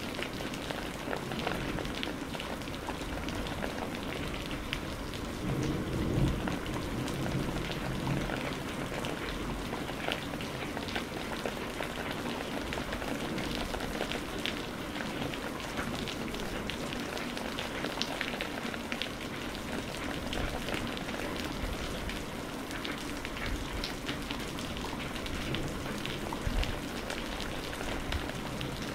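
Steady rain falling on a surface, with many individual drops ticking close by. A low rumble, likely distant thunder, swells briefly about six seconds in.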